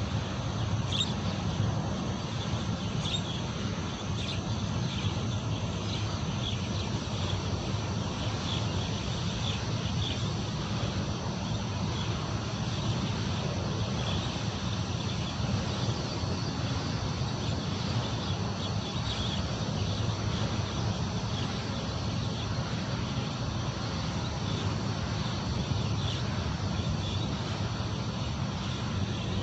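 Rural outdoor ambience: a steady low rumble, like wind on the microphone, with many short high chirps scattered throughout.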